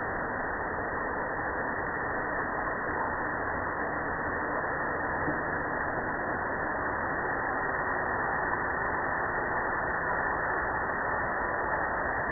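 Waterfall rushing: a steady, unbroken noise of falling water, dull and without highs.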